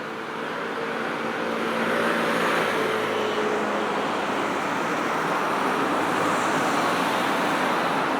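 Busy road traffic passing close by: a steady rush of tyres and engines that swells over the first couple of seconds, with one vehicle's engine note dropping slightly in pitch as it goes by.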